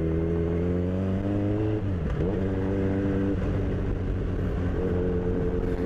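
Kawasaki Z1000 inline-four motorcycle engine running under way, its pitch holding steady with a slight rise. About two seconds in the pitch dips briefly and climbs back, then holds steady again, over a rush of wind and road noise.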